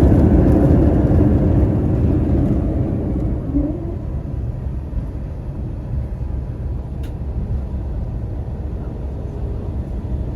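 Airbus A321 cabin noise as the jet slows on the runway after touchdown: a loud roar that fades over the first four seconds to a steadier, lower rumble. A brief rising whine comes about three and a half seconds in.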